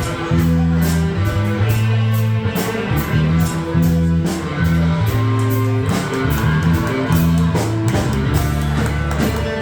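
Instrumental rock ballad accompaniment with guitar, bass and a drum kit keeping a steady beat, with no singing.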